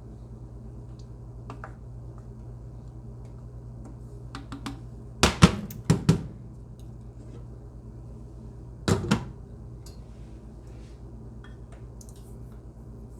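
Cookware clattering at the stove: a quick run of sharp knocks about five to six seconds in and another pair near nine seconds, over a steady low electrical hum.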